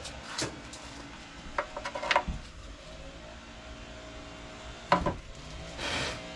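Scattered clinks and knocks of metal tools and plumbing parts being handled, with a quick cluster of small clicks and a sharper knock later, then a short hiss near the end.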